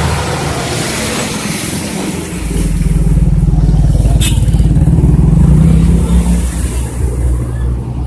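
Engine of a motor vehicle passing close by on the road. It grows loud about two and a half seconds in, rises slightly in pitch, and fades after about six and a half seconds, with one brief sharp click about four seconds in.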